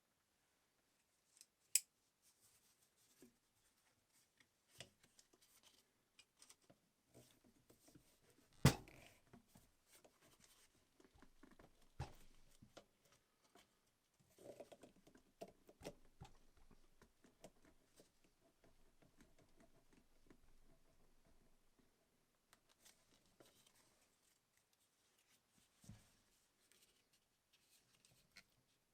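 Faint bench handling of small tools and metal parts: scattered light clicks and rubbing, with a sharper knock about nine seconds in and another about twelve seconds in.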